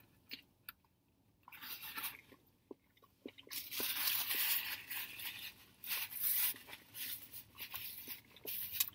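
Close-up chewing of a mouthful of spicy chicken sandwich with a toasted bun. A few small clicks come first, then a dense, irregular run of chewing sounds begins about a second and a half in and is fullest from about three and a half seconds in.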